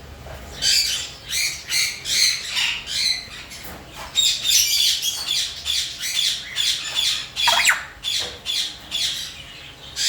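Aviary parrots squawking: a rapid run of short, harsh, high-pitched calls, several a second, with a couple of sharp falling shrieks a little past the middle.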